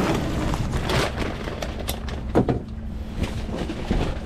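Strong wind buffeting the microphone in a steady low rumble, with a few sharp knocks and clatters, the loudest about two and a half seconds in.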